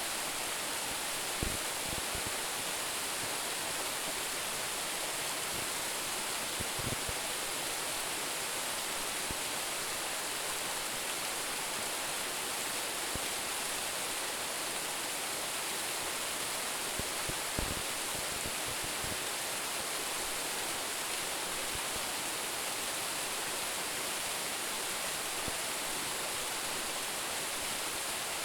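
Waterfall of about ten metres pouring steadily into its pool, a constant rushing hiss, with a few brief low thumps now and then.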